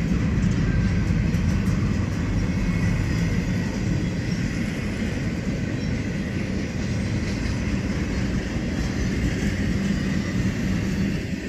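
A long freight train's cars rolling steadily past: a continuous rumble of steel wheels on the rails.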